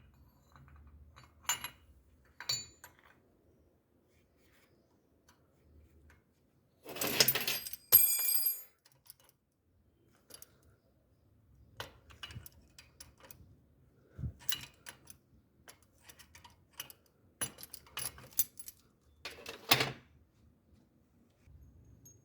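Scattered light clicks and clinks of small hard objects being handled, with a brief metallic jingle about seven seconds in.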